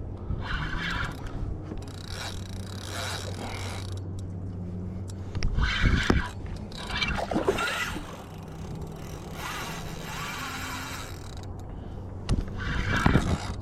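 Spinning fishing reel being cranked in four bursts while a hooked fish is played, over a steady low hum, with a couple of heavy knocks about six seconds in and near the end.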